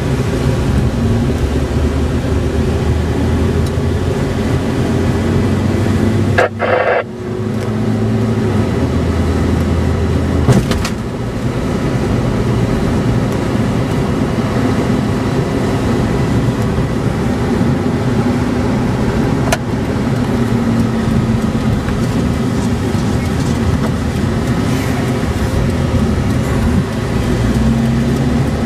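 Car engine and road noise heard from inside a moving car, a steady low rumble with a brief break about six and a half seconds in and a sharp click a few seconds later.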